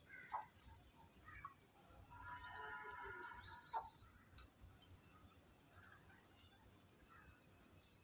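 Faint, scattered bird chirps and calls, with a longer, louder call about two to four seconds in, and a few sharp clicks.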